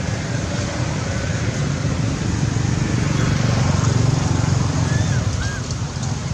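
Steady low rumble of outdoor background noise, like wind and distant traffic, with a few faint short chirps or squeaks about three and five seconds in.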